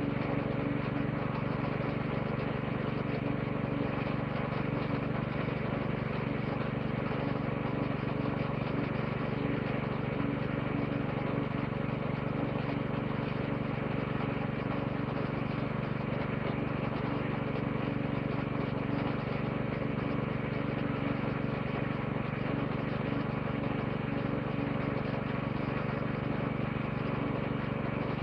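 Woodchipper-shredder engine idling steadily, with no branches being fed in and no change in speed.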